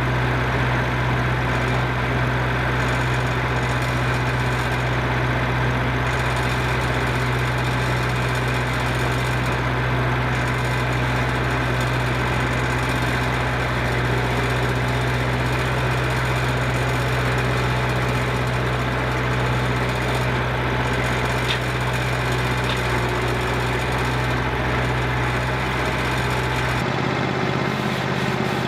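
An engine running steadily at a constant speed, with a low hum whose pitch shifts abruptly near the end.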